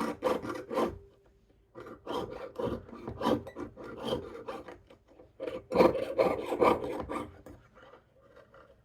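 Jeweler's saw blade cutting silver sheet in quick up-and-down strokes, about four a second, while turning a corner in the cut. The strokes stop briefly about a second in, resume, and trail off near the end.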